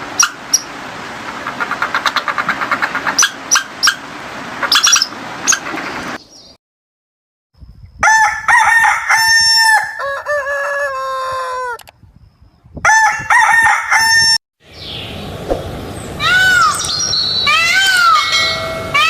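Separate animal recordings cut together: sharp clicking chirps first, then a rooster crowing twice near the middle, each crow ending in a falling drawl, and near the end a string of short rising-and-falling calls.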